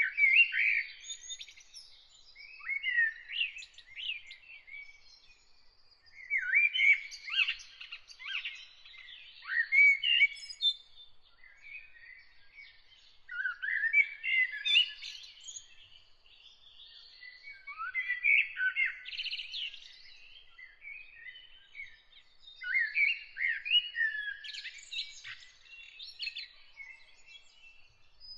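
A songbird singing in repeated warbled phrases, each about two seconds long, with short pauses of a second or two between them.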